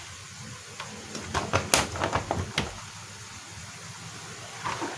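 Scattered light clicks and knocks of projector parts and connectors being handled and fitted during reassembly, busiest in the first half and quieter near the end.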